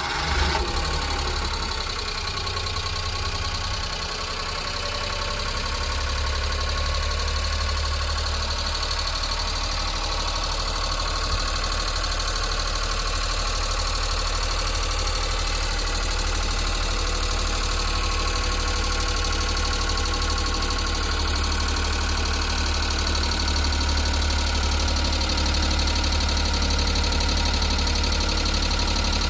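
Daihatsu Hijet S83P kei truck's small three-cylinder engine idling steadily just after being started, with a low, even hum that settles a few seconds in.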